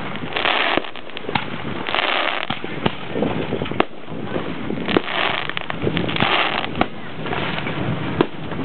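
Aerial fireworks shells bursting overhead: sharp bangs at uneven intervals, with stretches of crackling hiss between them.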